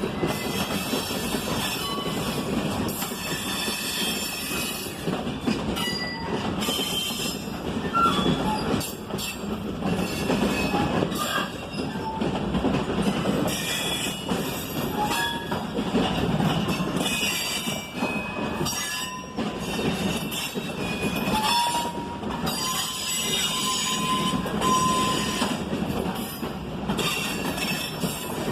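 Freight train of loaded side-dump ballast cars rolling past, with steel wheels rumbling and clattering over the rails. Scattered high wheel squeals sound throughout.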